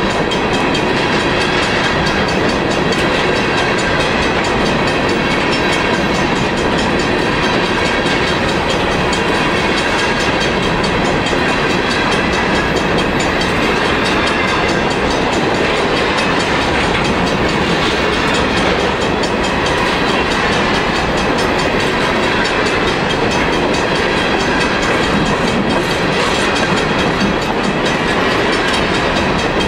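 Steel wheels of a long freight train of gypsum hopper cars rolling over the rails, a steady clatter that does not let up.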